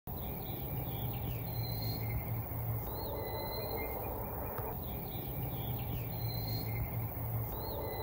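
Unidentified bird calling: thin, short high notes with quick upward glides, recurring in a similar pattern every few seconds. They sit over a steady low outdoor hum and a faint insect drone.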